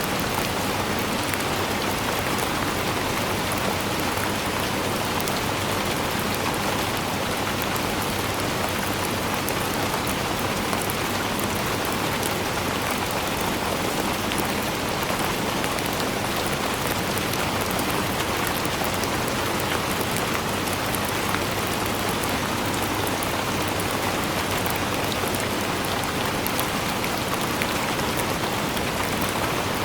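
Steady rainfall, a constant even hiss of rain with many fine drop ticks on hard surfaces, unchanging throughout.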